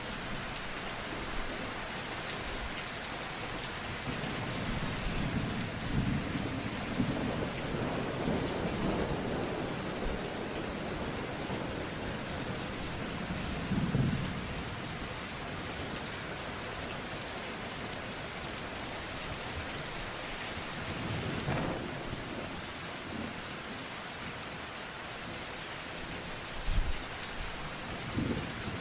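Steady heavy rain with thunder: a long low rumble in the first half and several shorter claps later on.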